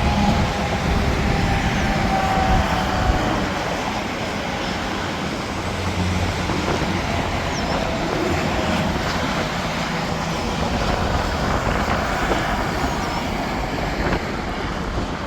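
Steady interstate highway traffic: trucks and cars passing at speed, with continuous tyre and engine noise and a faint tyre whine that slowly falls in pitch as vehicles go by.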